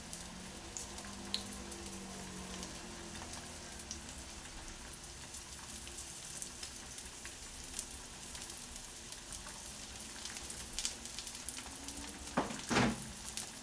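Chicken breast steaks sizzling steadily in an oiled frying pan, with scattered small pops and crackles. A brief louder noise near the end.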